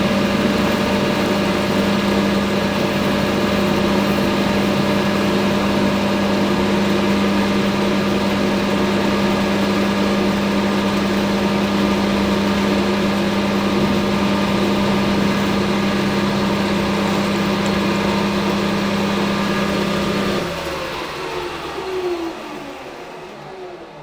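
Hafco AL960B metal lathe running steadily. It is switched off about 20 seconds in, and its pitch falls as it winds down over the last few seconds.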